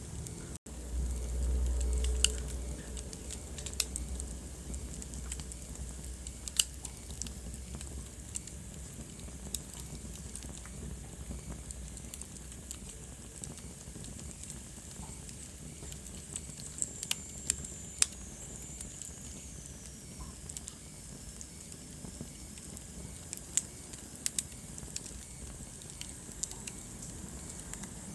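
Wood fire in a fireplace crackling, with scattered sharp pops over a soft steady hiss. A low rumble swells in the first few seconds, and a thin high whistle slowly falls in pitch about two-thirds of the way through.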